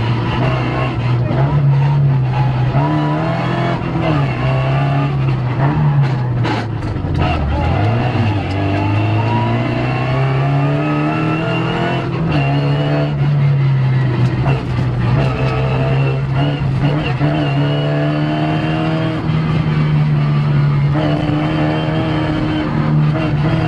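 Rally car engine heard from inside the cockpit at full stage pace, revving up through the gears and dropping back at each shift or lift. About seven seconds in the revs fall away sharply as the car slows hard, then the engine pulls steadily back up.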